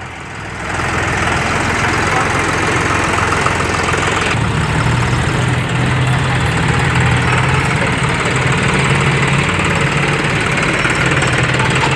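Tractor engine running steadily. About four seconds in, a deeper steady engine note comes in and holds.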